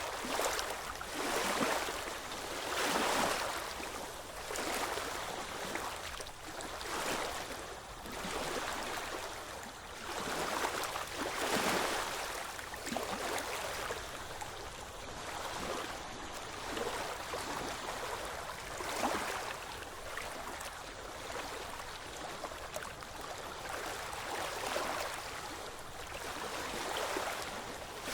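Ocean waves washing on the shore: a continuous rush of surf that swells and falls back every second or two.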